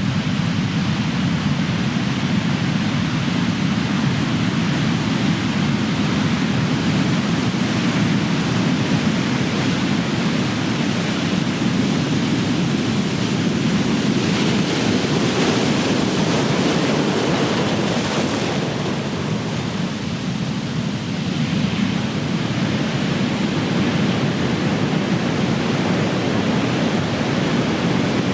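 Big ocean waves crashing on the shore in a continuous wash of surf. About halfway through, the hiss of one breaking wave swells and then eases off, with a short lull just after.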